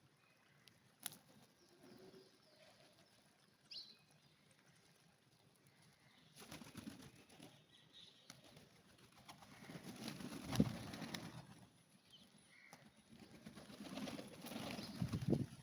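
Pigeons' wings flapping in repeated flurries as birds take off and land, starting about six seconds in and strongest about two-thirds of the way through and again near the end, with a few sharp clicks before that.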